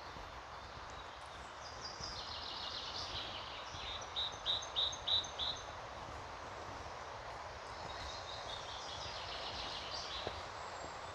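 A songbird sings two phrases of quick, high repeated notes a few seconds apart. The first ends in four louder notes. Both rise over a steady background rush.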